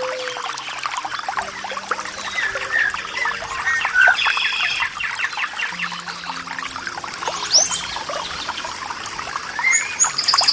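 Water trickling and splashing, with small birds chirping over it; faint low sustained tones sit underneath.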